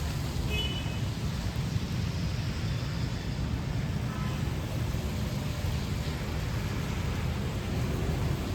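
Steady city street ambience in rain: a constant low rumble of traffic under an even hiss of rain.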